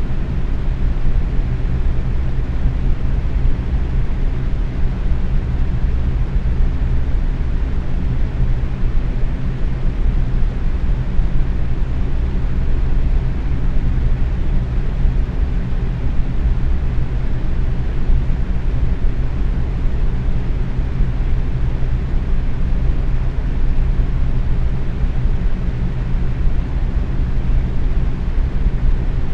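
Box fan running steadily at medium speed: an even, low-pitched rush of moving air with a faint motor hum under it.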